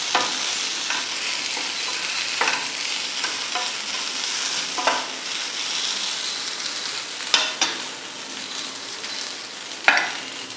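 Idli cubes frying in sesame oil in a nonstick pan: a steady sizzle, broken every couple of seconds by the short scrape or knock of a wooden spatula against the pan.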